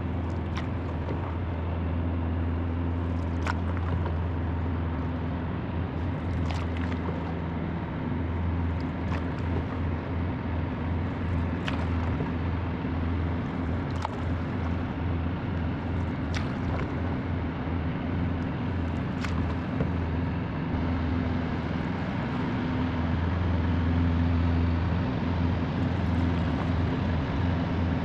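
Engines of a jet-powered river barge running upstream with a steady, noisy low drone that grows a little louder near the end.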